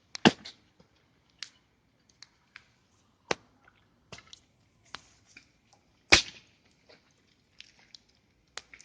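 Wood campfire crackling: scattered, irregular sharp pops and cracks from the burning firewood, with one louder crack about six seconds in.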